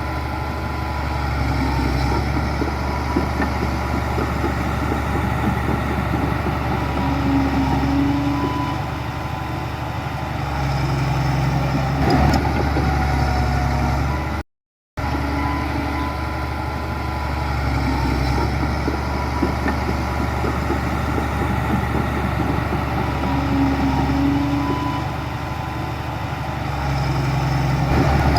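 Heavy diesel engine of earthmoving machinery running steadily, with one sharp knock near the middle. The sound cuts out for a split second about halfway through and then picks up again.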